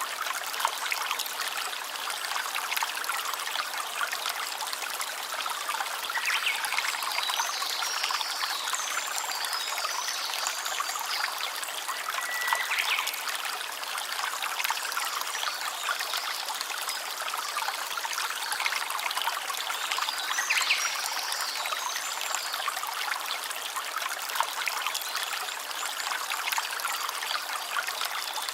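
Water of a stream or brook trickling and flowing steadily, with a few brief high-pitched calls over it.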